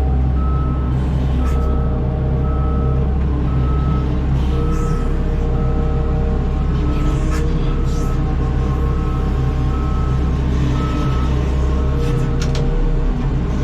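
Heavy vehicle's warning alarm beeping about once a second over its running engine, with a few sharp knocks near the end.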